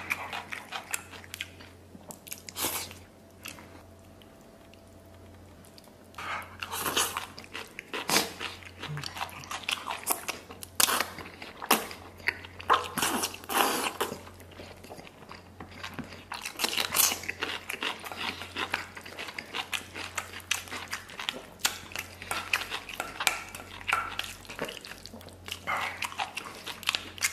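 Close-miked chewing of a mouthful of spicy braised beef tendon and rice, with many short wet mouth noises, easing off briefly a few seconds in before the chewing resumes.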